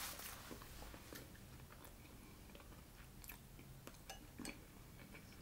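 Faint chewing of taco soup, with a few soft clicks and taps, one as a metal spoon dips into the glass bowl.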